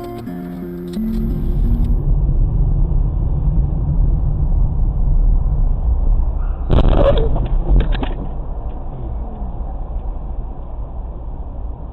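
Steady low rumble of a car driving, recorded from inside the vehicle by a dashcam, with a brief louder noisy sound about seven seconds in. Acoustic guitar music ends in the first second.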